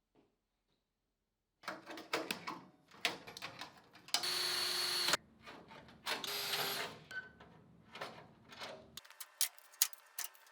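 Workshop metalwork sounds: a run of clicks and clanks of metal parts being handled, with two short bursts of a hissing power tool, about a second each, near the middle.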